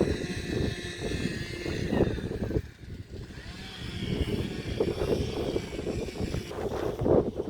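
Wind buffeting the microphone, with the steady drone of a distant motor that fades in and out.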